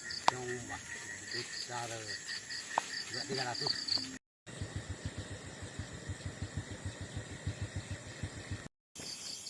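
Night crickets and insects chirp in quick repeated pulses over a steady high buzz, with soft low voices in the first few seconds. After a short break comes a fast run of low pulses, about eight a second, lasting some four seconds.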